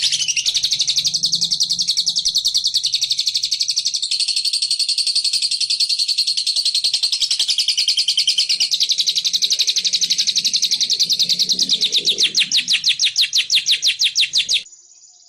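Lovebird ngekek: one long, very fast, high-pitched chattering trill of repeated notes that slows into distinct notes near the end and cuts off suddenly shortly before the end.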